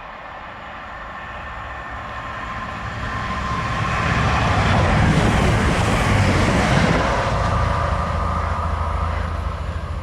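A train passing through the station: it grows louder over the first few seconds, peaks about halfway through with rumbling and rushing wheel and wind noise and a steady whine, then fades as it goes away.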